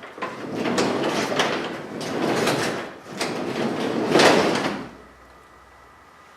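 New commercial sectional garage door rolling along its tracks with a rattle of rollers and panels, in three surges, then stopping about five seconds in.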